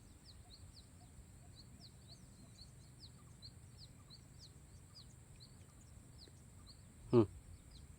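A small bird chirping on and on in short, quick, high notes, about three or four a second.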